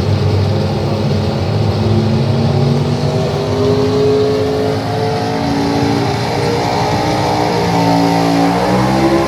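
Pulling vehicle's engine running hard under load, its pitch climbing slowly for several seconds, then dropping sharply about eight and a half seconds in and climbing again near the end.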